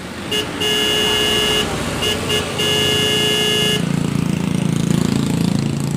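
A vehicle horn sounding a steady note in a run of honks: a couple of quick blips, a honk of about a second, two more blips, then a longer honk that stops about four seconds in. A low engine rumble follows.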